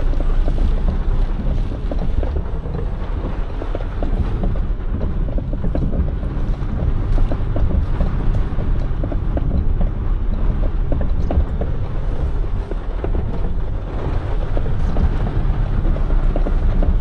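Box truck engine running, heard from inside the cab, with heavy rain hitting the roof and windshield as a dense crackle over a steady low rumble.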